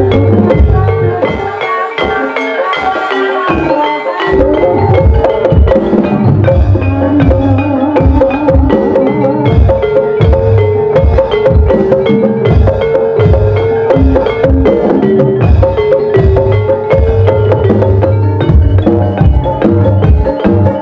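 Gamelan music accompanying an ebeg horse dance: tuned mallet percussion plays a repeating melody over regular drum beats, the drumming filling out about four seconds in.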